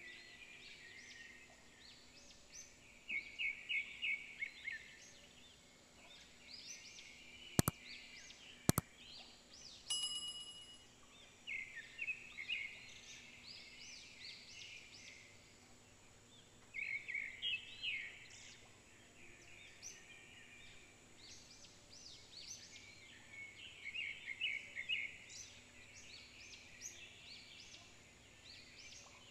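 Small birds chirping and twittering in repeated quick runs of high notes. Two sharp clicks come about eight seconds in, followed by a brief steady tone.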